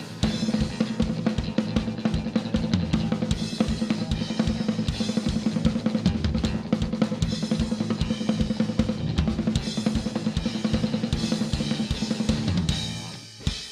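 Live rock band playing an instrumental passage with rapid, busy drumming, crashing cymbals and a sustained guitar-and-bass chord. It ends abruptly with a final hit near the end, closing the song.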